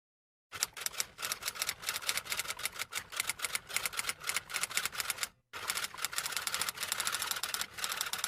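Typing sound effect: a fast, dense run of keystroke clicks that breaks off briefly about five seconds in, then carries on.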